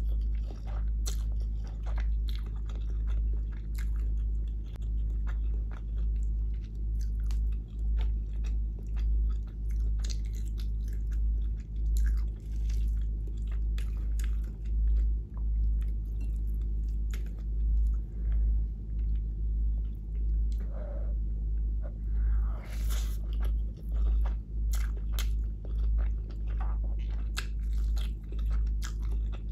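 Close-miked chewing and biting of vegetable biryani and aloo gobhi: many short crisp crunches and wet clicks over a steady rhythm of low jaw thumps, about one a second.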